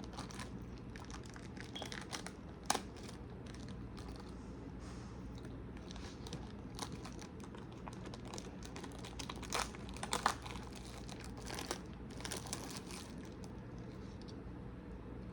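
Crinkling plastic packaging of store-bought hard taco shells being handled, with scattered light clicks and a few sharper taps, over a steady low hum.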